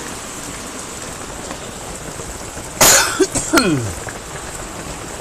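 Steady rain drumming on a metal cabin roof. About three seconds in, a person gives a sharp cough that trails off into a falling vocal sound.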